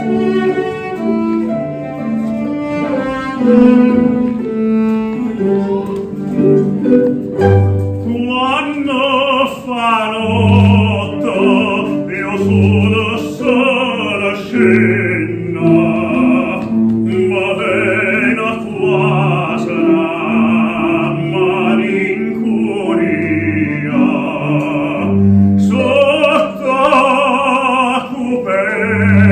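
Classical music: a string accompaniment with bowed low strings, then an operatic singing voice with strong vibrato enters about eight seconds in and carries the melody.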